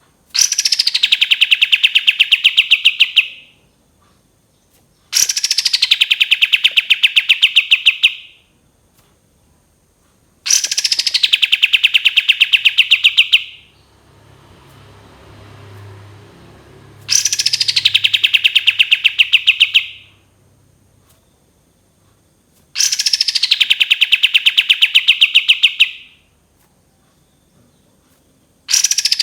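Kapas tembak songbird singing a loud, long phrase over and over, about every six seconds: each phrase opens with a steeply falling note and runs into a fast trill of rapidly repeated notes lasting about three seconds. Five full phrases sound, with another starting right at the end.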